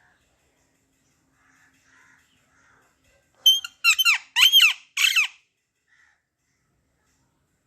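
Pet parrot giving four loud calls in quick succession about halfway through, each arching up and then down in pitch, with a few faint soft chirps before them.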